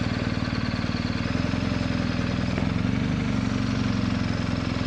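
Adventure motorcycle engine running steadily at low speed, with an even, rapid pulsing exhaust note.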